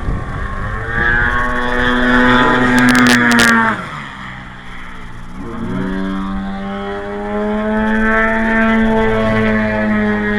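Engine of a radio-controlled aerobatic model plane in flight, its note bending in pitch. Around four seconds in the pitch drops and the sound fades as the throttle comes back. About two seconds later it rises again and holds steady.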